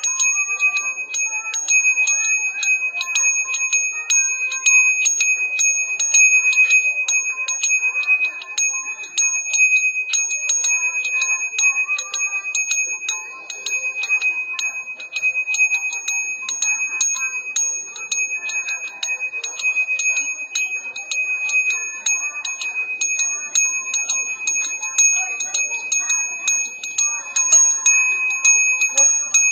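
Balinese genta bajra, a Hindu priest's hand bell, rung continuously: the clapper strikes the bell several times a second, keeping up a steady high ringing tone with a higher overtone.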